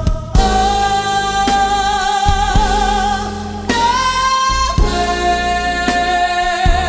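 Jazz song with a female voice holding long, wavering notes, stepping up in pitch about halfway, over bass and drums.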